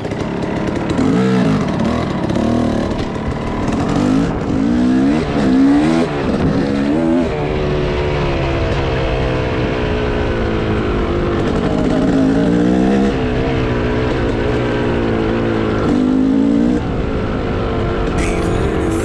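Enduro motorcycle engine being ridden, revving up and dropping back again and again in the first several seconds, then running steadier before revving up again near the end.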